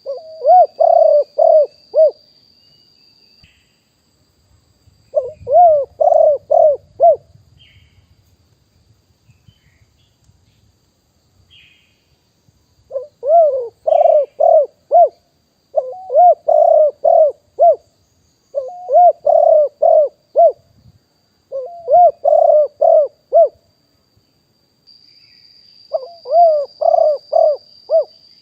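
Spotted dove cooing: seven phrases of four or five coo notes each, every phrase lasting about two seconds, with pauses of one to several seconds between them.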